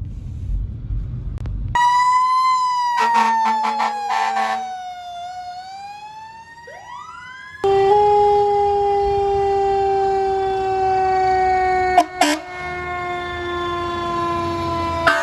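Pierce Velocity fire truck responding with its siren: a wailing tone that slides slowly down in pitch, broken by a burst of rapid air-horn-like pulsing a few seconds in. From about eight seconds a louder siren tone sets in and keeps falling slowly, with two sharp blasts near the end.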